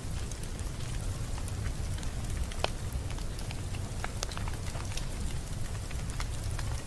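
Wood fire crackling in a fireplace: scattered sharp pops and ticks over a steady low rumble of the flames, with a louder pop a little under three seconds in.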